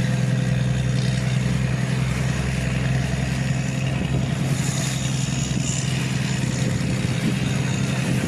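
An engine running steadily at a constant speed, a loud, even low drone.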